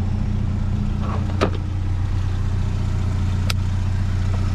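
A vehicle engine idling steadily with a low hum, and two sharp clicks about two seconds apart.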